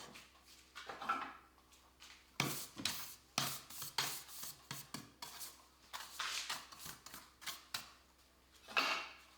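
Hand work on wood: irregular scraping and rubbing strokes with sharp knocks and clicks as wooden pieces are handled and moved against each other. No power tool is running.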